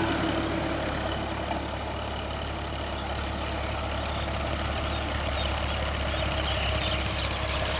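Sonalika DI 745 tractor's diesel engine running steadily at low speed, easing off slightly over the first couple of seconds.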